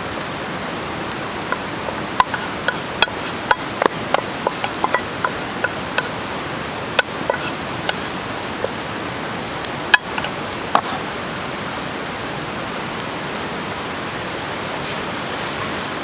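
Campfire crackling: irregular sharp pops and snaps, thickest in the first few seconds with one loud pop about ten seconds in, over a steady rushing hiss.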